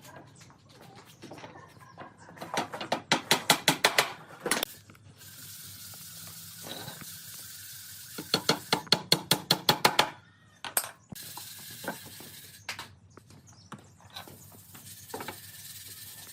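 Workshop tool sounds: two quick runs of about eight sharp strikes each, with a steady hiss between them and a few single knocks.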